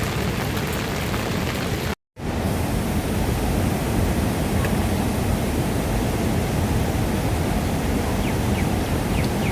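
Heavy rain falling steadily, a dense even hiss. The sound cuts out completely for a moment about two seconds in, then resumes.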